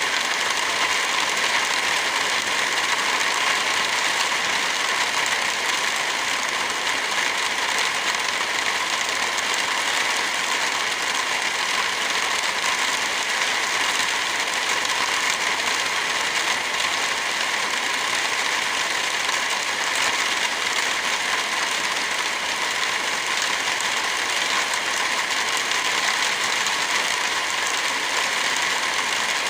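Steady rain mixed with a crackling fire, an even, unchanging wash of noise.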